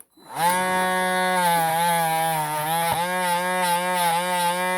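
A small electric rotary tool spins up about half a second in and runs with a steady whine. Its pitch sags briefly several times as it is pressed against small metal parts to polish off rust and corrosion.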